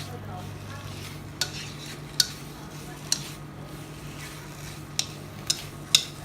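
A metal utensil clinking against cookware, with about six sharp clicks at uneven intervals over a steady low hum.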